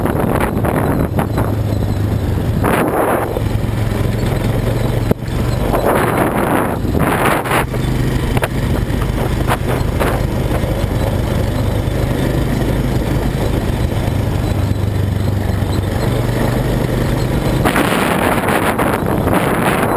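Quad bike (ATV) engine running steadily under way, its pitch shifting slightly as the revs change, with gusts of wind noise on the microphone a few times.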